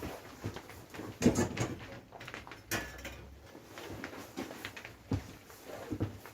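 Scattered light knocks and clatters of parts and tools being handled.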